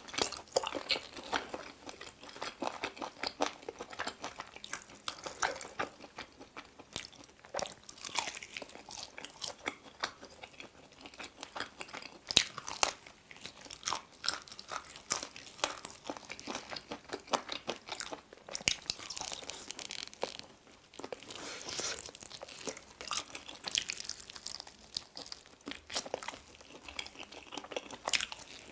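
Chewing and biting into sauce-glazed chicken wings and drumsticks: irregular crunches and wet crackles of skin and meat being bitten and chewed, heard close up.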